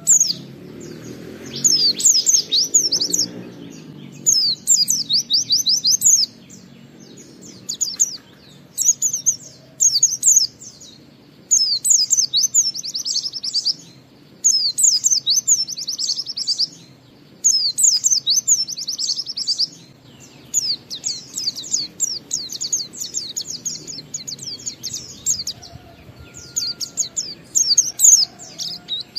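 A white-eye (pleci) singing in the rapid, twittering 'ngalas' style prized by bird keepers. It sings dense, high chirping phrases of about one to two seconds each, repeated with short pauses between them.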